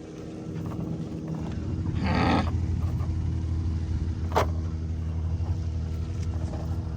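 Boat motor running with a steady low hum. A short noisy burst comes about two seconds in, and a sharp click about four and a half seconds in.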